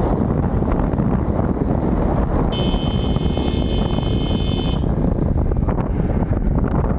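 Wind buffeting the microphone on a moving bike: a loud, steady rush. A high, steady tone sounds for about two seconds in the middle.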